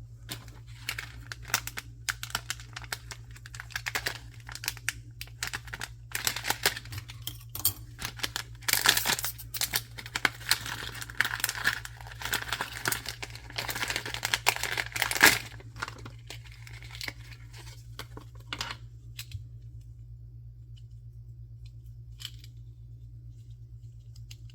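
Blind-box packaging being crinkled and torn open by hand. The crackling comes in bursts, is loudest through the middle and stops about 19 seconds in, leaving only a few faint clicks.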